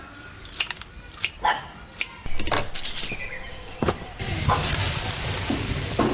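A few sharp knocks and clatters, then, from about four seconds in, food frying with a steady loud sizzle in a hot wok.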